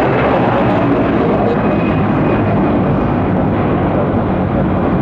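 Jet airliner engines at takeoff power: a loud, steady rushing noise with a faint high whine in the middle, its upper part fading near the end as the aircraft moves away.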